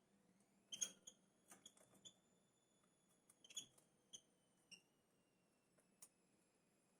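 Faint short, sharp chirps of small birds, a dozen or so scattered peeps, the loudest about a second in, over a thin steady high tone.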